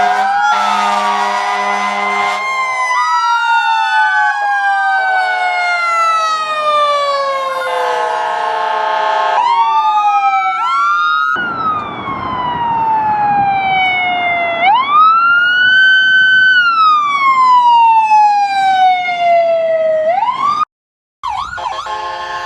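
Emergency vehicle sirens from a responding fire engine, rescue truck and police cars, several wailing together and overlapping, with blasts of a vehicle horn in a steady chord near the start, about a third of the way in and at the end. In the second half one siren wails slowly up and down over road noise, and the sound cuts out briefly near the end.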